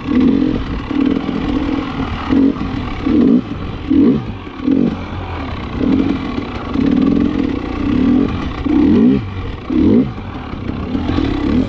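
KTM 300 XC-W TPI's single-cylinder two-stroke engine being ridden hard through deep sand, revving up and dropping back over and over as the throttle is worked.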